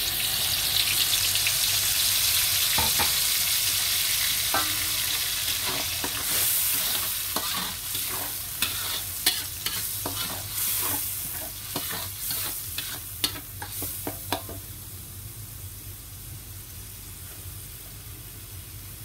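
Wet blended spice paste poured into hot oil in an aluminium wok, frying with a loud sizzle that sets in at once, then stirred with metal utensils that scrape and click against the wok many times. The sizzle dies down over the last few seconds.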